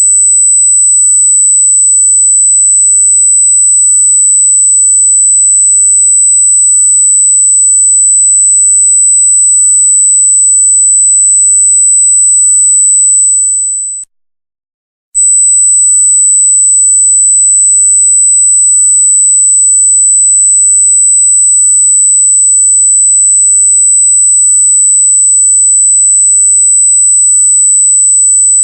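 Loud, piercing electronic test tone: one pure, very high steady pitch. About halfway through it fades out, stops for about a second, then cuts straight back in.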